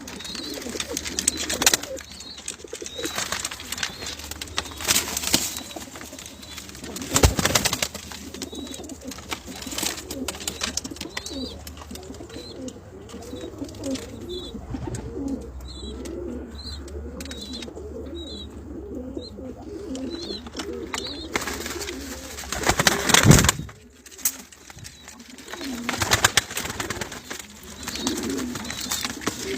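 Homing pigeons cooing together, a dense run of overlapping low, wavering coos, with faint short high chirps in the middle. Two loud bursts of noise cut in, one about seven seconds in and one near the three-quarter mark.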